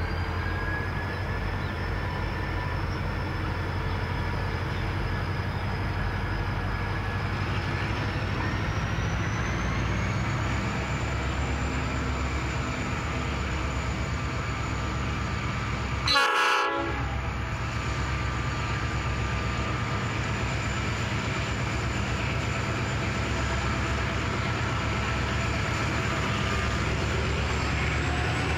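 Three diesel-electric freight locomotives of a grain train running under power as they pull away, with a steady engine drone and a high whine that rises slowly in pitch over the first ten seconds. A short locomotive horn blast sounds once, about 16 seconds in.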